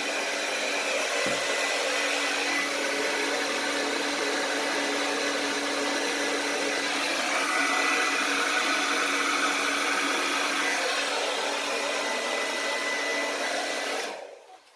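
Handheld blow dryer running steadily with a steady hum and a faint high whine, switched off near the end.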